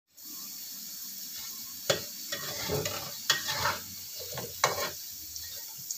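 Potato sticks frying in oil in a non-stick wok: a steady sizzle, with a spatula knocking and scraping against the pan three times as the pieces are turned.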